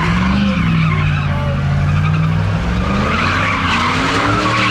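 A vehicle spinning its tyres: continuous tyre squeal over an engine held at high revs. The engine's pitch dips, holds steady, then rises near the end.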